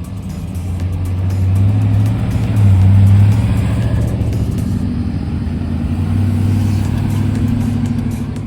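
Car engine running with a deep, low rumble, swelling louder about two to three seconds in and again near the end.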